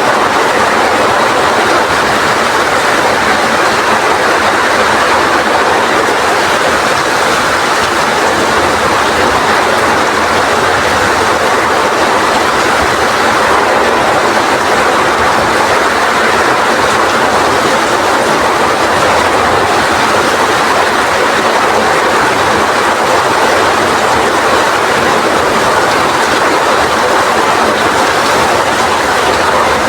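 Heavy rain falling in strong wind: a loud, steady rush of noise with no breaks or let-up.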